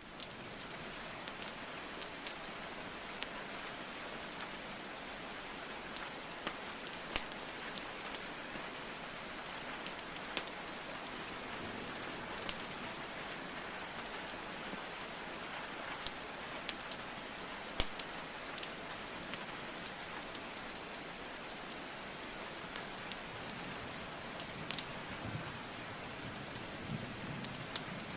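Steady hiss of rainfall with sharp, irregular pops and crackles of burning wood logs in a fireplace scattered throughout.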